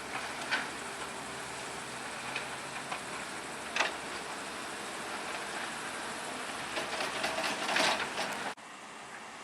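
Heavy construction machinery working, with a steady engine-and-mechanical noise, a couple of sharp clanks, and a stretch of rattling clatter near the end before the sound cuts off abruptly.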